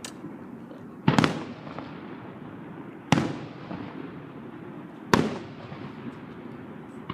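Aerial fireworks shells bursting: three loud booms about two seconds apart, each trailing off in a rumbling echo, after a smaller crack at the very start.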